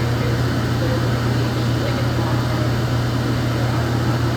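Laundromat washing machine running: a steady low hum with even machine noise.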